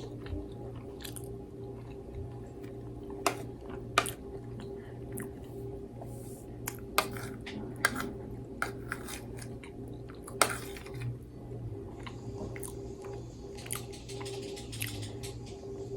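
Close-miked chewing and mouth sounds of a person eating breakfast food, with scattered sharp clicks, the loudest about three, four, seven and ten seconds in, over a steady low hum.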